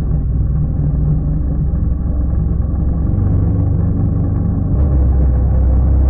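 Quad bike engine running under way as it is ridden, a loud low drone that changes tone about three seconds in and grows a little louder near five seconds.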